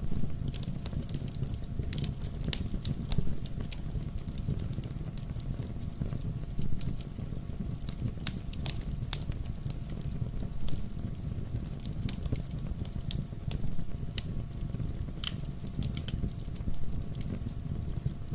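Fireplace fire crackling and popping irregularly over a steady low rumble of flames.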